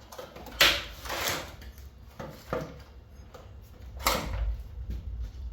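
Four or five sharp knocks and clanks from handling the mini split air conditioner's parts while working at its compressor. The loudest comes about half a second in.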